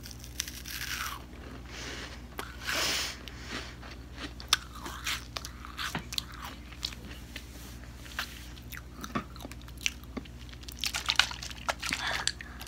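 Close-miked ASMR chewing: a person biting and crunching crisp food, with many sharp irregular crunches. The crunches come thicker and louder near the end.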